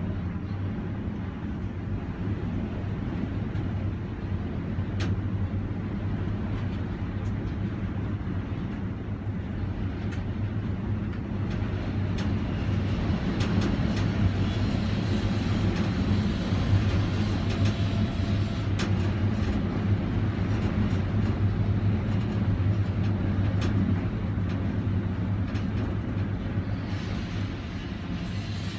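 Strong wind rushing over the microphone, over a steady low machine hum. The rush swells in the middle, with a few faint clicks.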